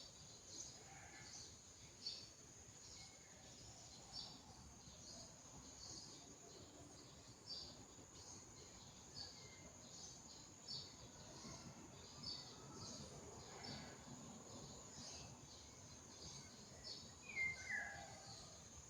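Faint natural ambience of small birds chirping, short calls about once a second over a steady high-pitched insect drone. A louder falling bird call comes near the end.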